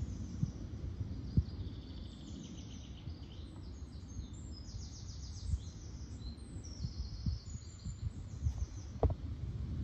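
Woodland birds singing: a continuous run of short, high chirps and quick trills from more than one bird, over a steady low rumble, with a soft thump about a second in and another near the end.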